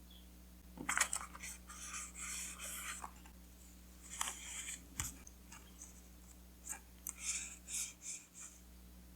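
Paper being handled: crisp crinkling and rustling in several short bursts, with a single light knock about five seconds in.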